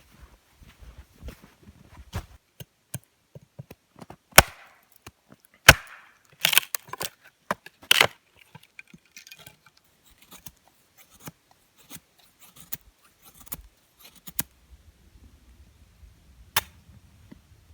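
Irregular knocks and clicks of hard objects being handled, with a few louder sharp knocks bunched a quarter to halfway through and one more near the end.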